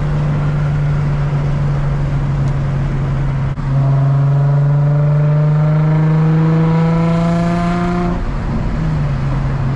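Infiniti G35's 3.5-litre V6 with the muffler and resonator deleted, heard while driving: running steadily, a brief drop about three and a half seconds in, then revs climbing steadily under acceleration for about four seconds before easing back to a steady drone.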